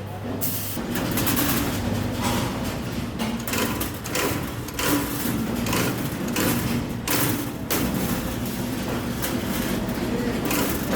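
Iron wire being worked in a cage-making workshop: irregular metallic clacks and scrapes over a steady low machine hum.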